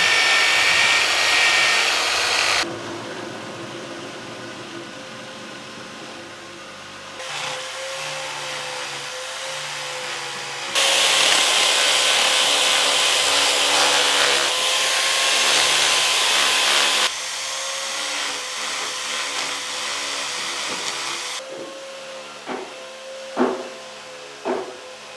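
Handheld power tool working wood in two loud bursts, the first spinning up at the start and the second about eleven seconds in lasting some six seconds, with quieter running between. A few sharp knocks near the end.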